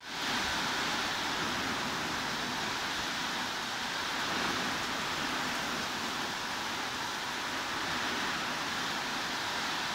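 Heavy rain falling as a steady, even hiss. A momentary dropout right at the start, then the rain comes straight back at full level.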